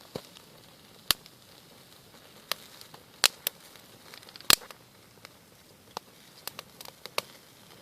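A small campfire crackling as the kindling catches: dry twigs popping in sharp, irregular snaps, a few of them loud, over a low hiss.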